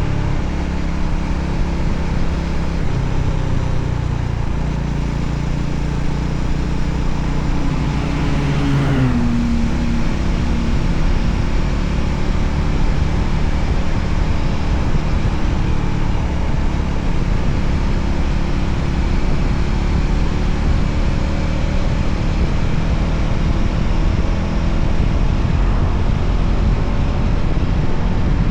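Voge 300ACX motorcycle's single-cylinder engine running steadily at riding speed, with wind rushing over the microphone. About nine seconds in, a note rises and then falls away.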